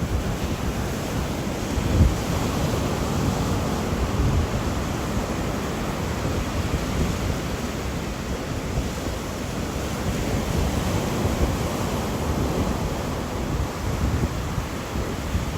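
Steady rushing wind and rain, with a low gusty surge about two seconds in.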